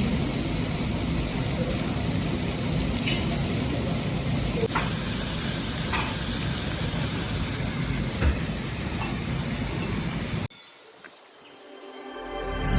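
Food sizzling steadily on a hot plate, a continuous hiss with a few faint ticks, which cuts off suddenly about ten seconds in. Music fades up near the end.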